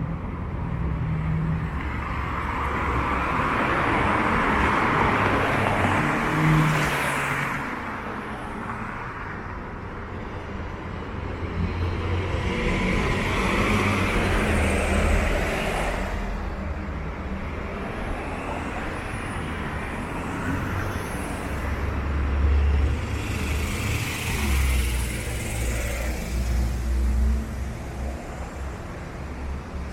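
City street traffic: cars passing one after another, about three clear pass-bys swelling up and fading, over a steady low rumble of engines.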